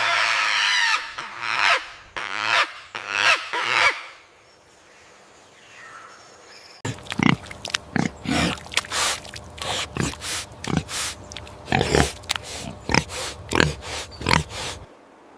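Pigs: a few loud squeals in the first four seconds, then after a pause a rapid run of short grunts, about two a second.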